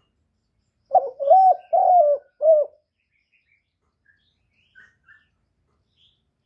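Male spotted dove cooing one loud phrase of four low notes, starting about a second in. A few faint, short chirps follow a couple of seconds later.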